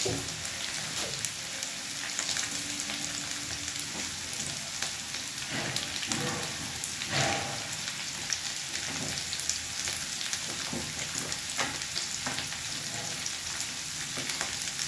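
Julienned potatoes frying in hot oil in a pan: a steady sizzle with scattered crackles and pops.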